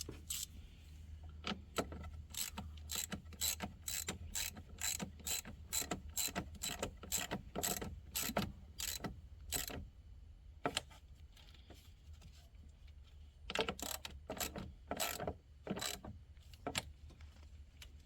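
Socket ratchet clicking in quick strokes, about three clicks a second, as the nut on the car battery's positive terminal clamp is tightened. The clicking pauses about ten seconds in, then a second, shorter run follows.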